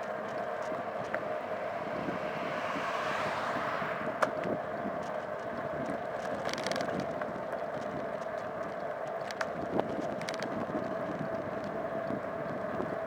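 Steady riding noise on the move: a constant hum with road and wind noise, a passing vehicle swelling and fading about three seconds in, and a few sharp clicks.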